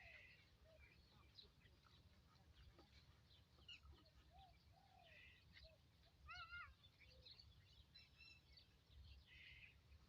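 Faint birdsong: scattered chirps and short calls from several birds, with one louder arched call about six seconds in, over a low background rumble.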